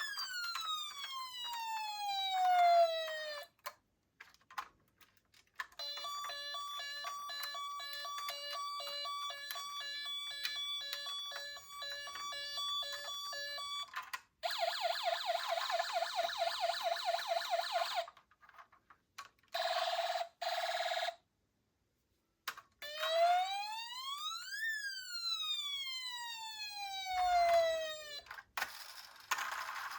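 Toy police cars' electronic sirens sounding one after another: a falling wail, a stepped pattern of alternating tones, a fast chirping yelp, two short beeps, then a wail that rises and falls. A few small clicks fall in the gaps between them.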